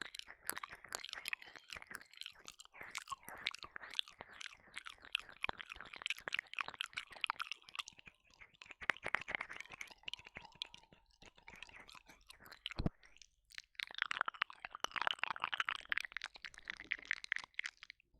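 Close, wet ear-licking mouth sounds into a 3Dio binaural microphone, made of many quick wet clicks. They break off briefly for a single low thump about two-thirds of the way through, then resume as a dense, wet stretch.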